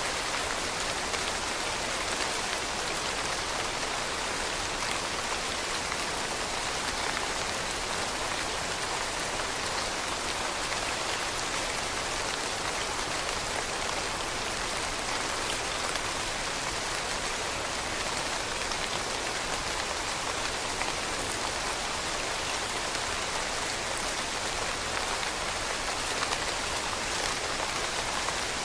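Steady rain falling on leaves: a continuous even patter of many drops with faint scattered individual ticks.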